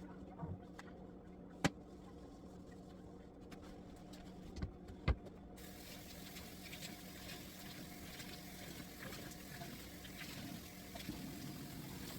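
A few short knocks, then about five and a half seconds in a tap is turned on and water runs steadily into a sink, over a low steady hum.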